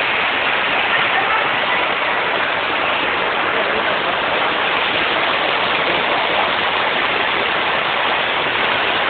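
Storm runoff of water, mud and sewage rushing down a street like a waterfall, a steady loud rush of water.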